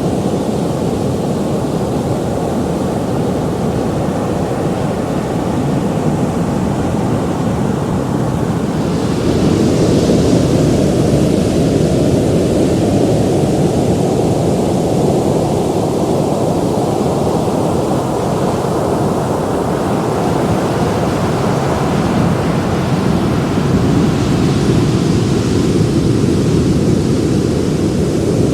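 Ocean surf: a steady low rumble of waves, with a wave breaking into a louder hiss about a third of the way in and another near the end.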